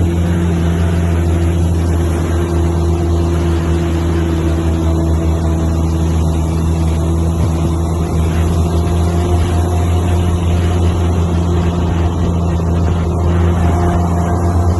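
Heavy diesel truck engine running with a loud, deep, steady drone that holds its pitch.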